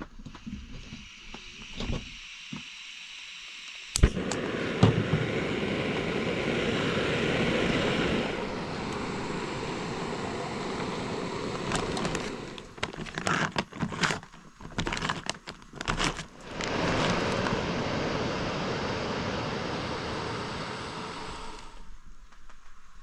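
Propane camp stove lit with a sharp click, then the burner hissing steadily under a pot. In the middle there is a spell of scattered clicks and crackles before the steady burner hiss comes back.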